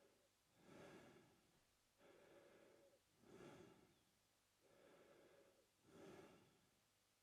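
A man breathing slowly and faintly through his mouth: about three breaths in and out, alternating a short, sharper breath with a longer, steadier one.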